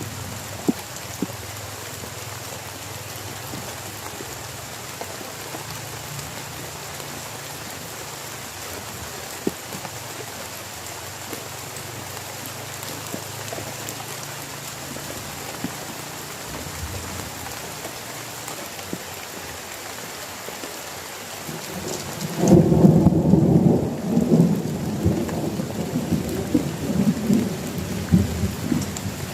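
Heavy rain falling steadily, with a few sharp drop hits. About two-thirds of the way in, a loud, long rumble of thunder rolls in and goes on for several seconds.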